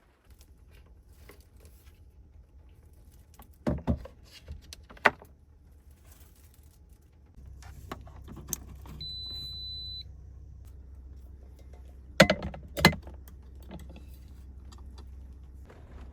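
Sounds of handling a vehicle: a few clicks and clatters like keys, then a low hum that comes on and holds steady, a single one-second beep, and two loud knocks.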